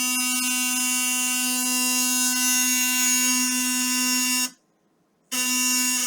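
Philips Sonicare DiamondClean sonic toothbrush running with a steady high-pitched buzz. It stops about four and a half seconds in and starts again under a second later. This is the repaired, liquid-damaged brush working again.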